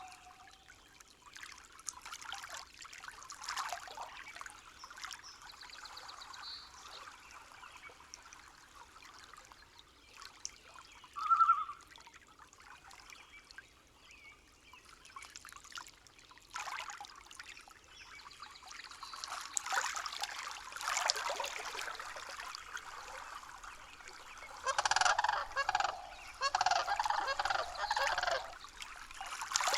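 A stream trickling steadily, with one short bird call about eleven seconds in and a loud run of repeated bird calls near the end.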